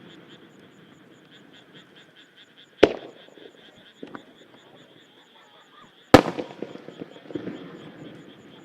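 Two aerial firework shells bursting with sharp booms, one about three seconds in and one about six seconds in, each trailing off briefly. A steady, rapidly pulsing high chirping runs underneath.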